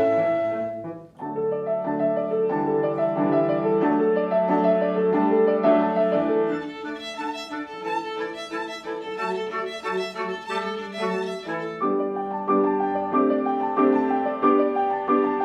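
Live chamber music: a violin carries the melody over piano and cello, with a brief break in the phrase about a second in.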